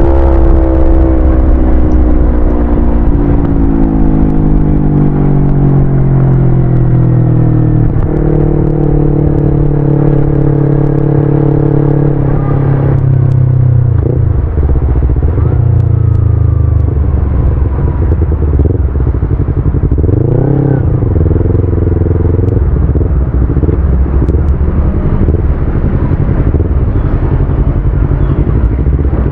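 Yamaha YZF-R25's parallel-twin engine heard from the moving bike: the revs fall steadily for the first several seconds, hold, then change again about 12 seconds in. There is a brief rev up and down about 20 seconds in, and the revs rise near the end.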